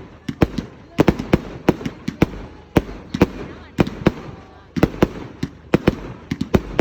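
Fireworks going off in a rapid, irregular run of sharp bangs and cracks, several a second, with short pauses between the volleys.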